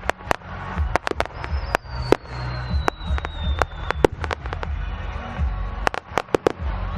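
Fireworks display: a rapid, irregular run of sharp bangs and crackles from bursting shells over a low rumble, with one high whistle falling slowly in pitch for about three seconds, starting about a second in.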